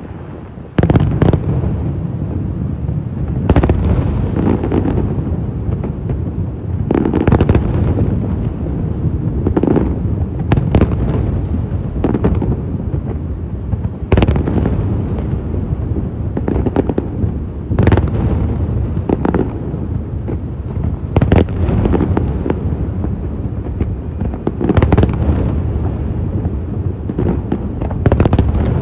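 Aerial fireworks shells bursting in quick succession: sharp bangs every second or two over a continuous low rumble and crackle of further bursts.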